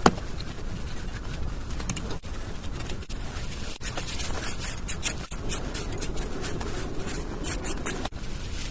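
Scraping and scratching on a rough surface, broken by a few brief gaps.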